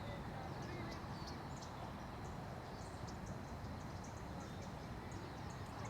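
Outdoor ambience: many short, high chirps from small birds over a steady low rumble of background noise.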